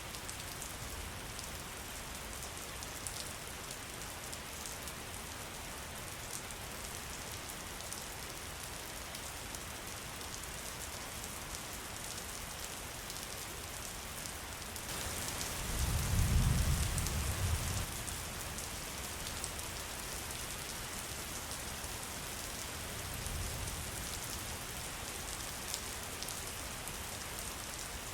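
Steady rain falling, with the patter of individual drops, and a low rumble of thunder swelling about halfway through. A fainter rumble follows a few seconds later.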